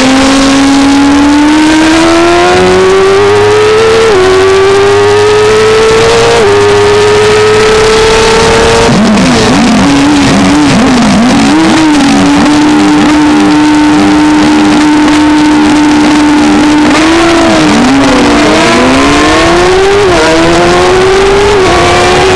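A 600cc racing motorcycle's engine at high revs, heard from on board, winding up through the gears: its pitch climbs and drops back at each upshift. About nine seconds in, the engines of other race bikes sweep past and overlap with it. It then holds at a steady pitch, dips briefly near the end as the rider eases off, and climbs again through further shifts.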